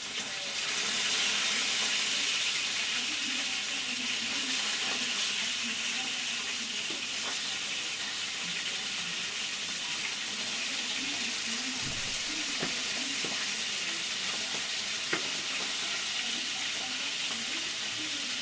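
Tomatoes and onions sizzling as they fry in a pan: a steady hiss that swells about a second in, with a few faint knocks.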